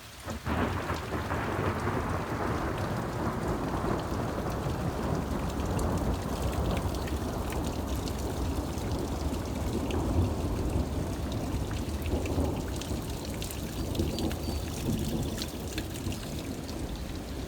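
Thunder breaking suddenly about half a second in and rumbling on for many seconds, its sharper top fading while the low rumble continues, over heavy rain.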